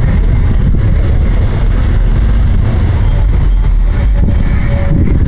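Car engines and exhausts in street traffic, a loud steady rumble.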